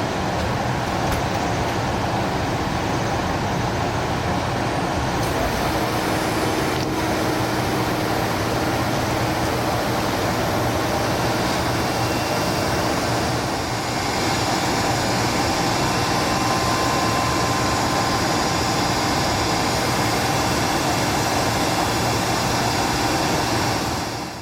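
Seino Railway freight train running past, a steady loud rumble with faint passing tones that ends abruptly.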